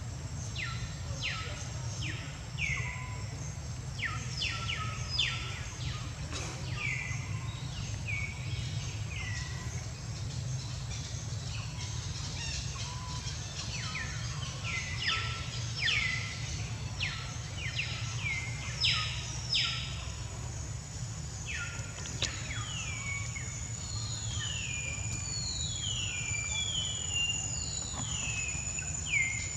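Birds calling over and over, each call a quick note that slides down in pitch. Beneath them run a thin, steady, high insect whine and a low, steady background rumble.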